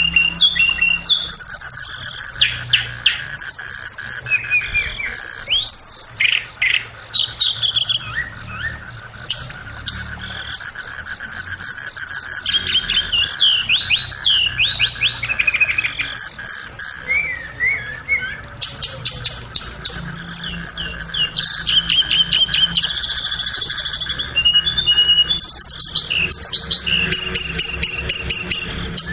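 Tledekan (blue flycatcher-type songbird) singing continuously: quick, varied whistled phrases, sliding notes and rapid chattering runs of short notes follow one another with only brief pauses, over a faint steady hum.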